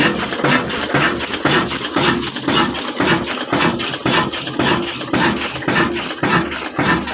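Old black single-cylinder diesel engine running steadily, with a slow, even beat of exhaust pulses.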